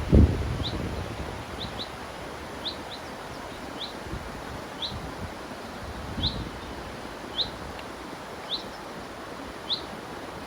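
A small bird repeating a short, high, falling chirp about once a second over the steady rush of a river. A brief low rumble, the loudest sound, comes just after the start, with a smaller one about six seconds in.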